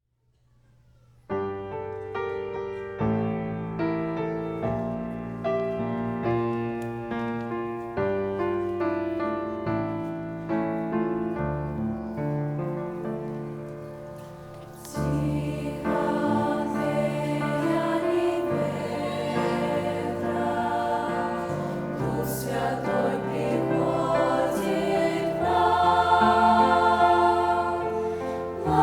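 Church choir singing a Russian-language hymn, after a piano introduction of slow, evenly paced chords. The choir comes in about halfway through and swells toward the end.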